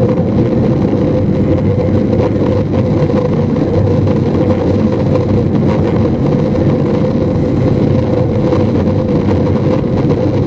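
Running noise inside a motor car of an E259 series Narita Express electric train: a steady, loud rumble with a steady hum over it.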